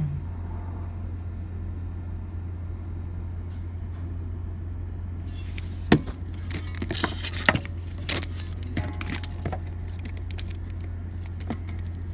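Steady low drone with a cluster of sharp metallic clicks and rattles from about six seconds in, from handling metal tools and fittings.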